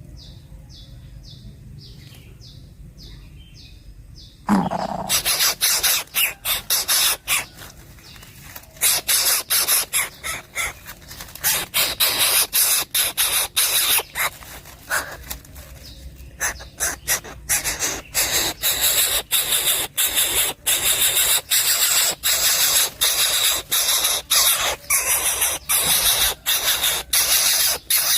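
Coucal nestling hissing, rapid harsh rasping pulses that start loudly about four and a half seconds in and keep going, with a faint series of high, evenly spaced notes before them.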